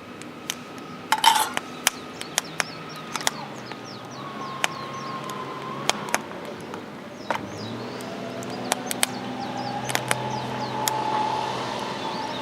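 Irregular sharp clicks and clinks, with birds chirping and a low steady hum that grows louder about halfway through.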